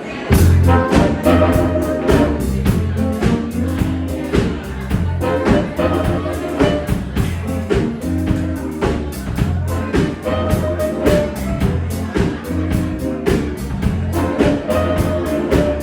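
Live blues band playing the instrumental intro to a song, a steady drum beat under bass and lead instruments, with no singing yet.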